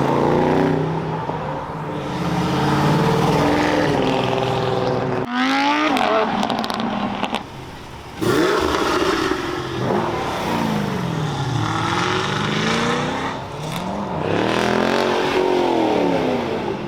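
Several cars accelerating away one after another, their engine notes climbing and falling through revs and gear changes. There is a sharp rising rev about five seconds in, and another loud car comes through from about eight seconds.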